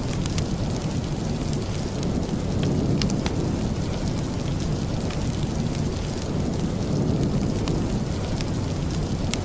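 Steady rain, an even dense rush with most of its weight low down, with scattered sharp little ticks through it.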